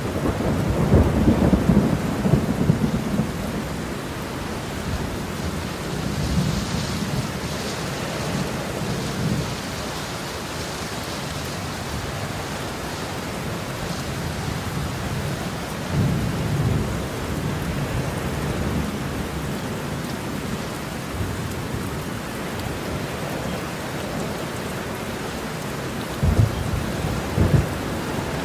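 Heavy rain falling steadily, with rolling thunder: a long rumble in the first few seconds, softer rumbles later, and two short, sharper claps near the end.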